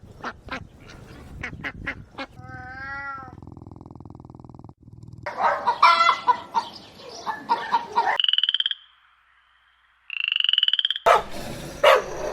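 Frogs calling in a string of short clips cut one after another: croaks, a buzzing trill and high pulsed calls, with about a second of near silence partway through.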